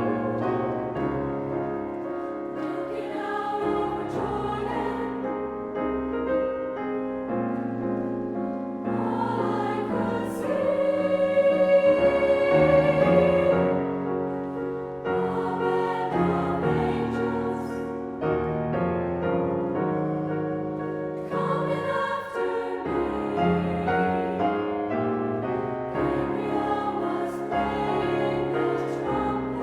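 Choir singing with piano accompaniment, swelling to its loudest on a long held high note about halfway through.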